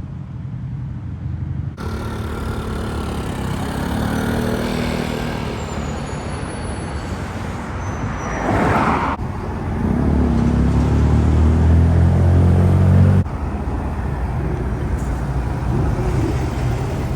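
Street traffic with car engines running. A vehicle passes by about eight seconds in, and a deep engine rumble is loudest from about ten to thirteen seconds in. The sound changes abruptly a few times.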